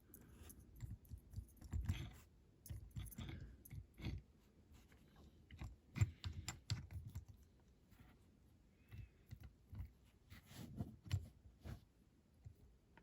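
Irregular small clicks, taps and soft knocks of hands handling a small diecast model and tools on a workbench.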